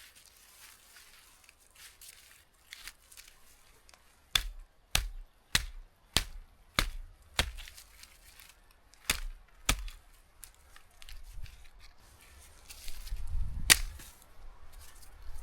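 Sharp chopping strikes on wood: a run of six about 0.6 s apart, two more a couple of seconds later, then a single louder strike near the end.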